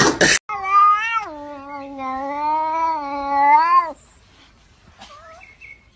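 A cat's long, drawn-out yowl lasting about three and a half seconds, stepping down in pitch about a second in and then holding. It follows a short loud burst of noise at the very start.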